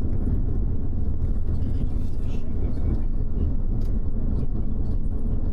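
Double-decker bus running on the road, a steady low rumble of engine and road noise heard inside the upper-deck cabin, with a few faint clicks and rattles.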